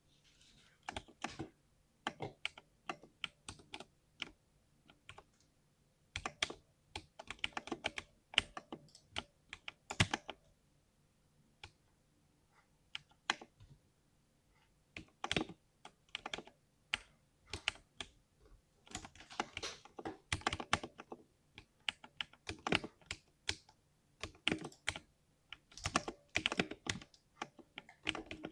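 Typing on a 60% mechanical keyboard with a deep, muffled 'thock' keystroke sound, in irregular bursts of rapid keypresses with short pauses between them.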